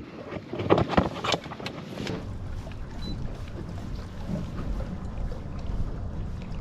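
Wind rumbling on the microphone on a boat, with a few sharp knocks in the first two seconds.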